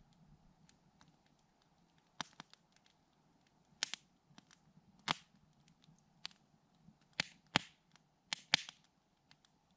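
Campfire crackling, with burning wood giving off sharp pops and snaps among fainter ticks; the loudest snaps come in quick pairs in the second half.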